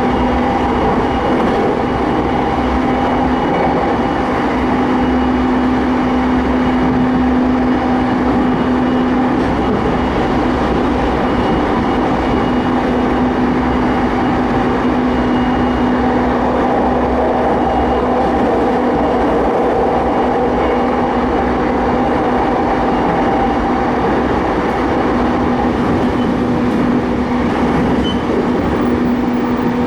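Keiyo Line electric commuter train heard from inside the carriage while running: a steady loud rumble of wheels and track with a constant hum of several steady tones from the train's equipment.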